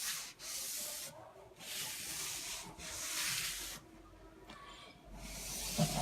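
Repeated back-and-forth rubbing strokes over the painted, relief-textured wooden fireplace surround, about five strokes each lasting up to a second, a dry hissing scrape typical of sanding or rubbing down the finish to distress it.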